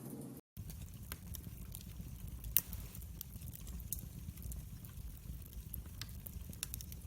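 Campfire crackling: scattered sharp pops and snaps over a steady low rumble, with one louder pop about two and a half seconds in. The sound cuts out for an instant about half a second in.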